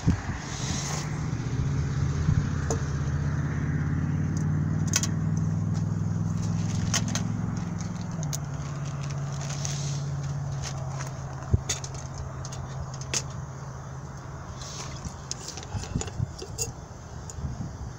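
A motor vehicle's engine running steadily with a low hum. Its pitch drops about eight seconds in, and it fades away around fifteen seconds. Small clicks and rustles of a plastic bag being handled sound over it.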